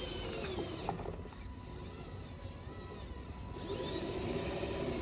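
Small electric motors of a radio-controlled construction model whining. The pitch drops away at the start, goes quiet, then rises and falls again over the second half as the machine is worked.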